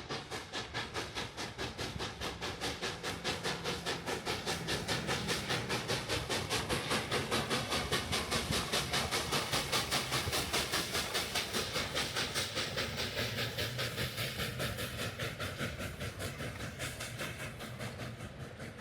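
Steam exhaust of Baldwin 2-8-0 Consolidation locomotive #81 chuffing evenly, about four chuffs a second, as it works upgrade at slow speed. The chuffs grow louder to a peak midway, then fade.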